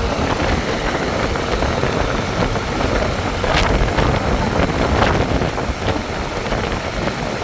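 An engine running steadily, with a couple of sharp knocks, one about three and a half seconds in and another about five seconds in.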